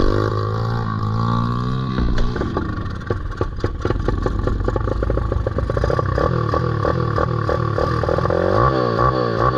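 Pit bike's small single-cylinder engine running and being revved up and down, with a slower, uneven stretch of firing in the middle before the revs rise and fall again near the end.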